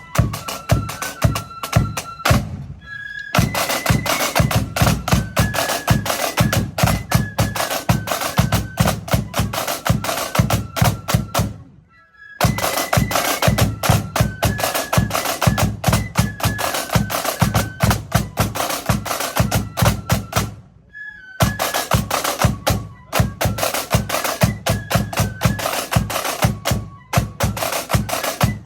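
Marching band playing a tune: a high melody over snare drum rolls and bass drum beats. The music breaks off briefly about three seconds in, around twelve seconds, and around twenty-one seconds, each time starting up again.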